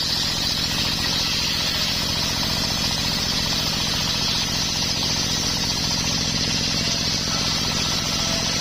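Homemade engine-driven circular sawmill running steadily, its engine chugging in rapid even pulses under a constant high hiss from the saw.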